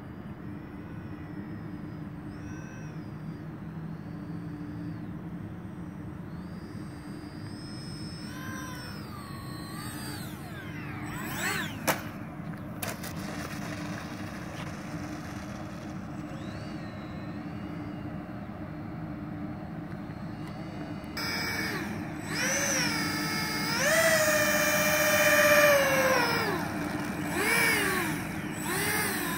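Electric motors of a radio-controlled Airbus A330 model airliner whining, their pitch rising and falling with the throttle. There is a sharp click about 12 seconds in. From about 21 seconds the motors are much closer and louder, revving up and down several times.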